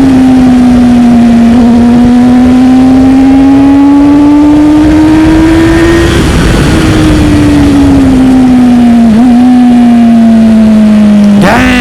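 Sport motorcycle engine heard from the bike while riding at a steady throttle, with wind rushing over the microphone. The pitch climbs slowly for about six seconds and then eases back down. Near the end the revs jump sharply.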